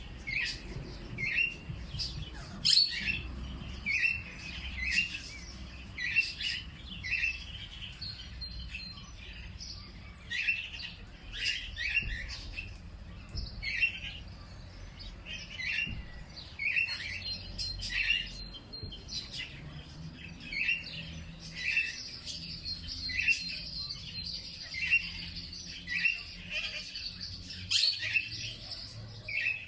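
Birds chirping: short, sharp chirps repeating about once a second, with a thin, high, steady trill joining in now and then over a faint low rumble.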